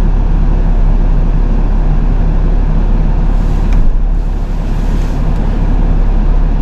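Truck engine idling with a steady low rumble, with a faint brief hiss about halfway through.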